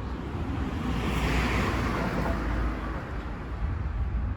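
A vehicle passing on the street: its noise swells about a second in and fades away, over a steady low rumble.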